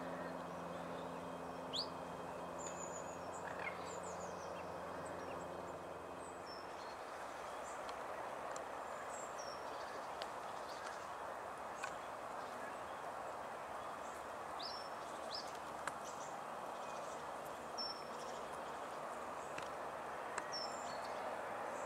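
Scattered short bird chirps and calls over a steady background hiss, with a low hum that fades out about seven seconds in.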